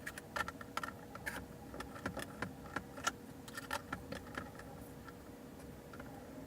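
Irregular light metallic clicks and clinks, a few a second, from a socket wrench and skateboard hardware as wheels are fitted onto the truck axles; they thin out about four and a half seconds in.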